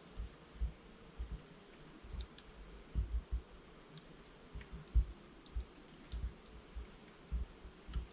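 Log fire in a fireplace crackling: scattered sharp pops and snaps at irregular intervals over soft low thuds and a faint hiss of burning.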